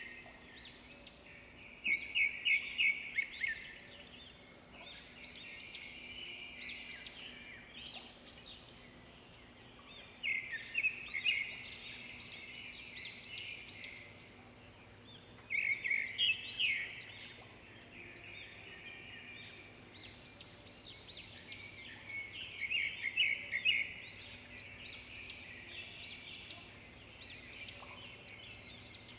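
Songbirds singing: a loud, rapid trilled phrase of quick high notes repeats about every six seconds, four times, with softer chirps and calls between.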